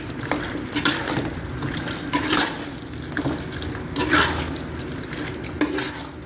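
A spoon mixing fried chicken into a wet sweet and sour sauce in a pot, with sloshing and irregular scrapes of the spoon against the pot.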